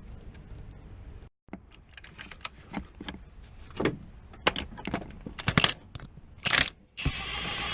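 Metal tools and parts clinking and clanking in a string of separate sharp knocks, with a louder steady mechanical noise starting near the end.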